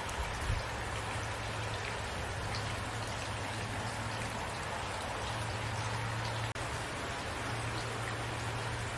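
Steady rain falling, an even hiss of drops with faint individual drop ticks, over a low steady hum. There is a momentary dropout about six and a half seconds in.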